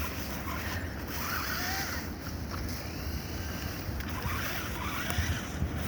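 Electric motors and gearboxes of RC crawler trucks whining as they crawl over sticks and mud, the whine rising and falling in pitch with the throttle, over a steady low rumble.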